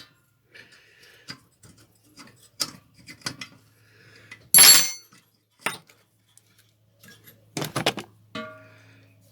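Metal tools and small engine parts being handled on a workbench: scattered light clicks and clinks, a loud metallic clank about four and a half seconds in, and a clatter near the end followed by a metal part ringing briefly.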